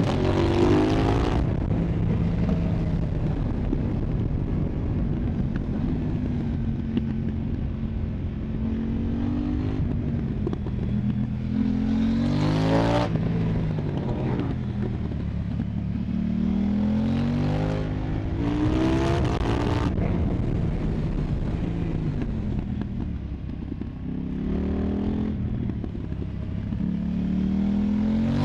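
KTM 990 Duke's parallel-twin engine through an Arrow Pro Race exhaust, revving up hard several times and dropping in pitch between as it shifts and rolls off, with wind rush underneath.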